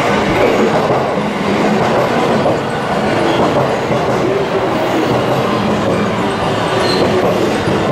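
JR West electric commuter train pulling into the station platform and running past close by: a loud, steady rumble of wheels on rails and running gear.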